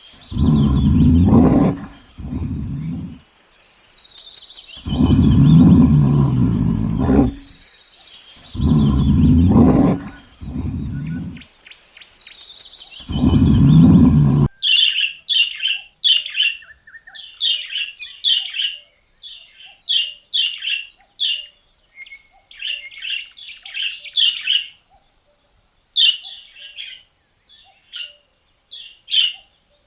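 Four loud, deep calls from a large animal, each lasting a couple of seconds, then from about halfway a small songbird chirping rapidly in short, high notes.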